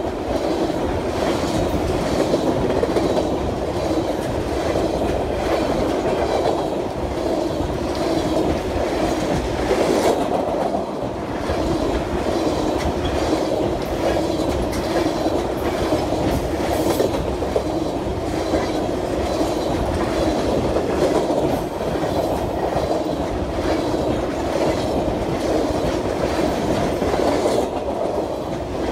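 Train rolling past at close range: a steady rumble of rail cars with a continuous run of wheel clicks over the rail joints.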